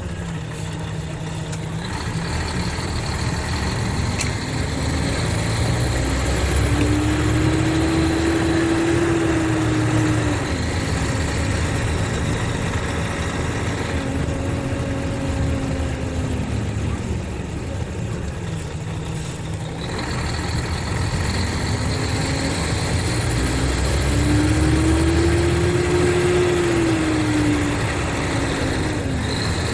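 Mercedes-Benz O500RSD coach's diesel engine running, its pitch climbing and then falling twice as the engine speeds up and drops back, and holding steady in between.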